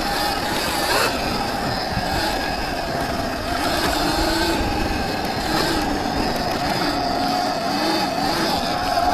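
Viper S electric dirt bike riding through mud: its electric motor whine wavers up and down with the throttle over a steady rush of tyre and wind noise.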